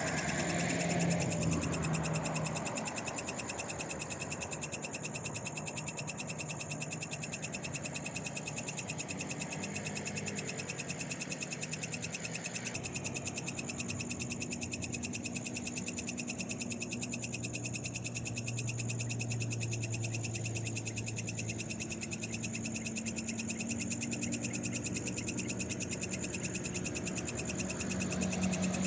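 Night chorus of frogs calling, with a steady high trilling throughout. A passing vehicle fades away in the first couple of seconds, and a faint low hum rises and falls midway.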